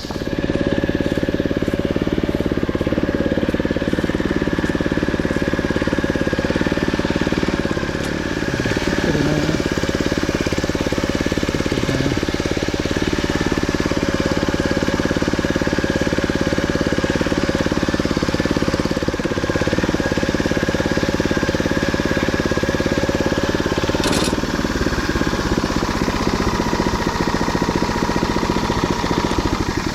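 A motor vehicle's engine running at a steady, even pace, loud and unbroken, as when being driven along.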